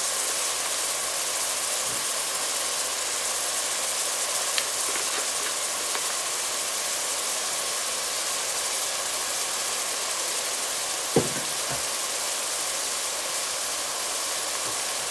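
Chopped onions frying in oil and ghee in a steel pot, a steady sizzle, with a single sharp knock about eleven seconds in.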